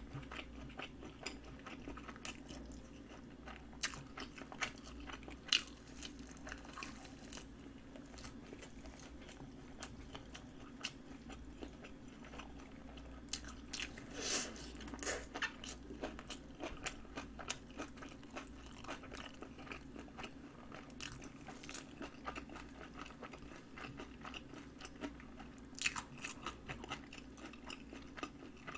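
Close-miked eating sounds: soft chewing with scattered wet mouth clicks and smacks. About halfway through comes a louder bite into a piece of sausage, and near the end another short flurry of chewing clicks, all over a faint steady hum.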